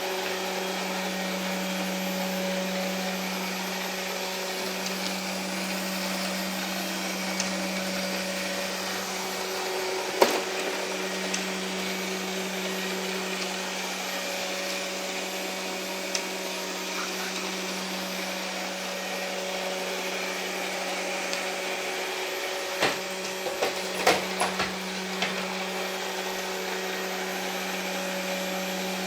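Ilife V55 Pro robot vacuum running with a steady motor hum and whirr. There is a sharp knock about ten seconds in and a short cluster of knocks near the end.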